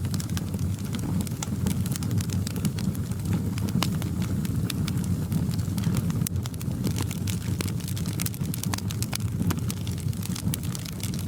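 Wood fire crackling in a fireplace: many scattered sharp pops and snaps over a steady low rumble of the flames.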